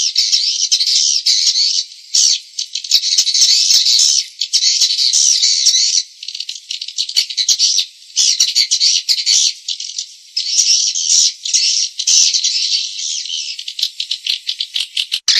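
Swiftlet lure-call recording: dense, high-pitched, rapid rattling twitters of swiftlets, running in bursts broken by brief pauses every couple of seconds.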